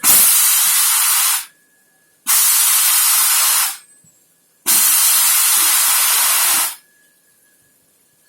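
Compressed air venting from a train's pneumatic brake system in three loud hisses of a second or two each. Each starts abruptly and tails off, and the last is the longest. A faint steady high whine is heard in the gaps.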